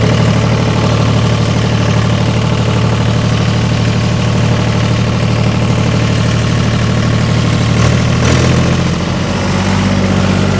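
Farm tractor engine running steadily with the PTO engaged to drive the fertilizer spreader; its note shifts about eight and a half seconds in.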